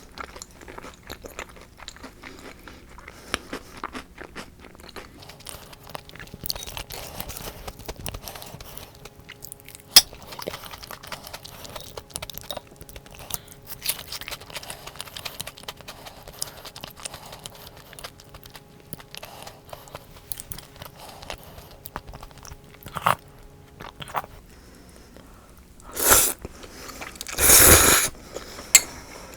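Close-miked chewing and crunching of fried food such as shrimp tempura or croquette, many small crackles, with a few louder, longer noisy sounds near the end.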